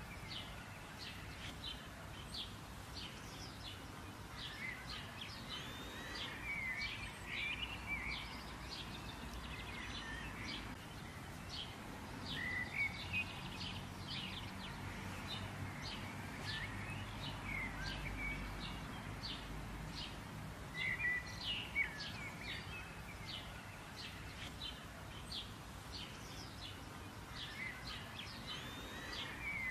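Small birds chirping over and over, short high chirps and brief twittering phrases, over a steady low background rumble.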